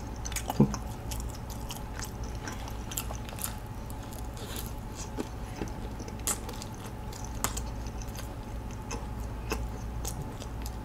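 A person chewing a mouthful of soft sausage pretzel close to the microphone, with scattered small wet mouth clicks.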